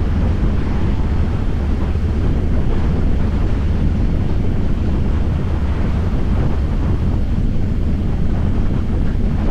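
Harley-Davidson Fat Boy's V-twin engine running steadily while riding, heavily buffeted by wind on the microphone.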